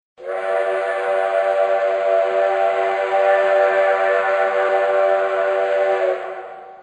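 Steam train whistle, several notes sounding together as a chord, blown in one long steady blast of about six seconds that starts suddenly and fades out near the end.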